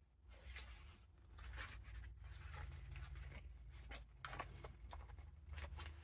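Paper pages and ephemera of a handmade junk journal being turned and handled: a string of soft paper rustles and swishes, roughly one a second, over a faint low hum.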